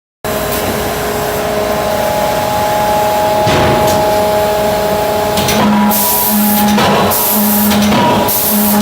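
CNC hydraulic closed-die forging hammer running with a steady hum. About halfway in, a rhythmic cycle begins: a low tone and a loud hiss pulse on and off roughly once a second.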